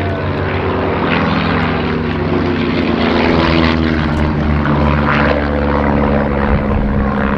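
Three de Havilland Chipmunks' four-cylinder Gipsy Major piston engines and propellers droning overhead. Several engine notes overlap and shift slightly in pitch as the formation breaks apart.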